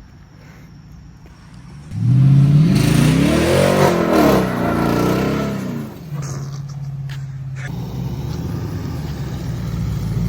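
Pickup truck engine revved hard: about two seconds in its pitch climbs steeply, peaks, then drops back over a couple of seconds to a steady lower running note. A few sharp clicks come in as it settles.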